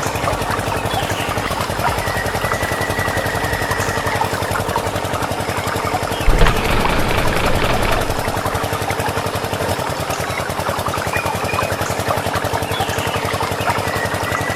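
A small engine-like motor running steadily with a rapid, even beat. There is a sudden thump about six seconds in, then a louder stretch lasting a couple of seconds.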